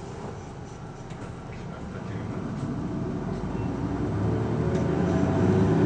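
Isuzu Erga city bus's diesel engine heard from inside the cabin, growing steadily louder from about two seconds in as the bus pulls away and accelerates.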